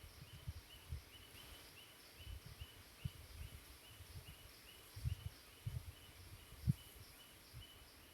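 A short, high chirp repeated evenly about two to three times a second, over a faint hiss and irregular soft low thumps.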